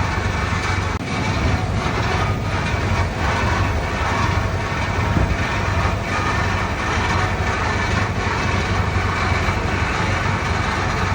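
Komatsu D31P crawler bulldozer's diesel engine running steadily under work, with light irregular clanking over the low engine drone.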